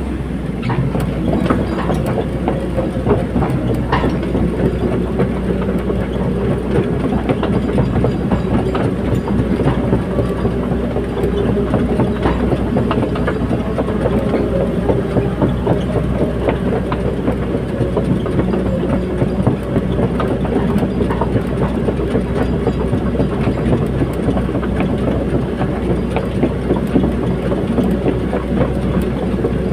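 Caterpillar 320D excavator at work: its diesel engine runs steadily under a dense metallic clatter.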